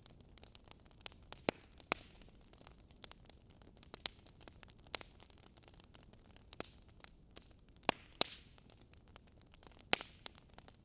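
Shredded cabbage and vegetables being mixed by hand in a glass bowl: soft rustling and scraping with scattered sharp clicks, the loudest about two, eight and ten seconds in.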